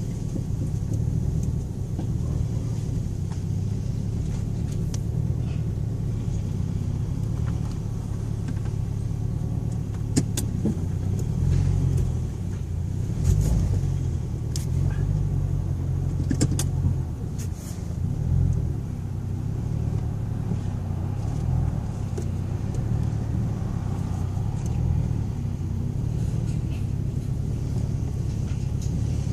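Ford Thunderbird on the move: steady engine and road rumble, with a few sharp clicks or rattles midway.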